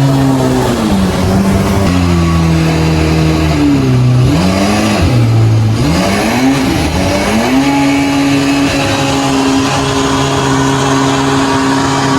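Jet boat engine revving up and down as the boat turns, its pitch dipping and rising several times before settling into a steady higher drone about halfway through.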